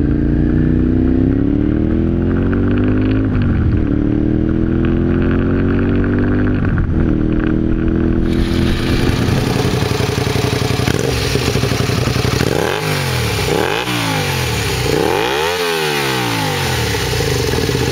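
Honda VTR250 V-twin engine and exhaust, first pulling through the gears with revs climbing steadily and dropping sharply at two upshifts. Then three quick throttle blips, revs rising and falling each time, before it settles to a steady run.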